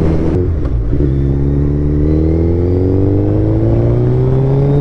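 Suzuki Hayabusa's inline-four running through an Akrapovič full-system exhaust while the bike is ridden. The engine note breaks off briefly about half a second in, as at a gear change, then climbs steadily as the bike pulls up through the gear.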